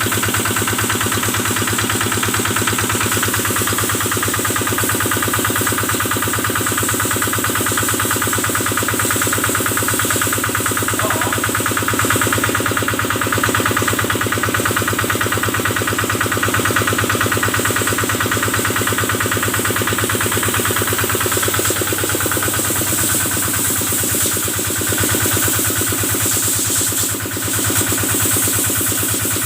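Kubota diesel engine running steadily, driving the pump used to wash the cattle, with a brief dip in loudness near the end.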